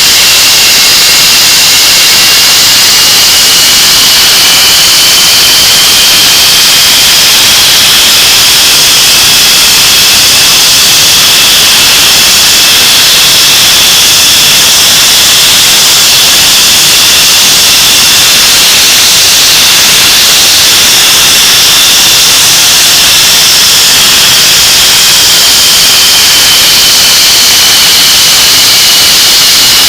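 English Electric Lightning's Rolls-Royce Avon turbojets running on a ground engine run, brought up to power: a loud, steady rushing noise with a high whine that rises slightly over the first few seconds and falls a little near the end.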